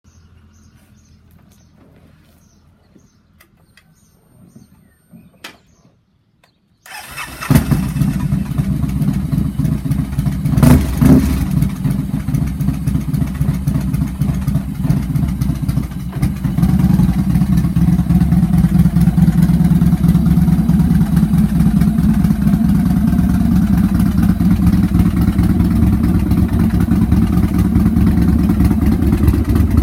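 2013 Victory Hammer 8 Ball's V-twin engine, fitted with a lumpy cam, cold-started. After several seconds of faint clicks it fires about seven seconds in, blips a couple of times, then settles into a loud, steady idle that grows louder from about halfway through.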